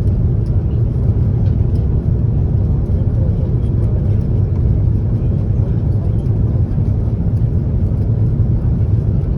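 Steady low rumble of cabin noise inside an Airbus A330-300 airliner in flight on approach: engines and airflow along the fuselage.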